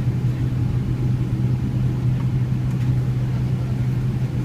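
Steady low hum and rumble of cabin noise inside a Boeing 777-300ER, from its engines and airframe, on the ground just after landing. It holds even throughout with no rise or fall.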